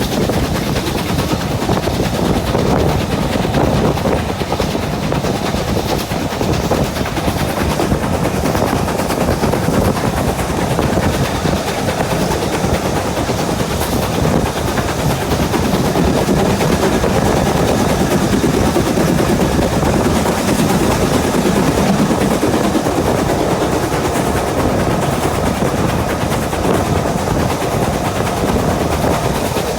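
Steam locomotive working hard, its exhaust beats coming in a rapid, continuous stream over the running noise of the train.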